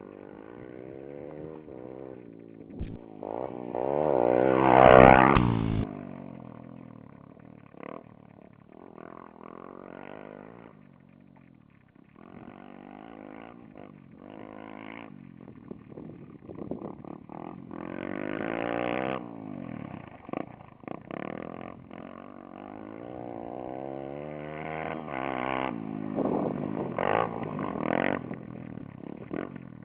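Motocross motorcycle engines revving hard and easing off as bikes ride past, their pitch rising and falling. The loudest pass comes about five seconds in, and more bikes swell up past the middle and again near the end.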